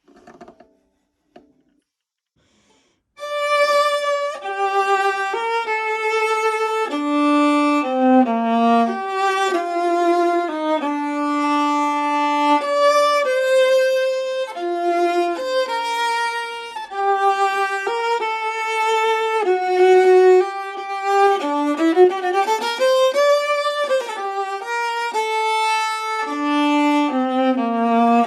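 A 16-inch antique Italian viola, labelled Giovanni Pistucci, Naples c1898, played with the bow: after a few faint knocks, a solo melodic line starts about three seconds in, held notes and phrases with some sliding shifts in pitch.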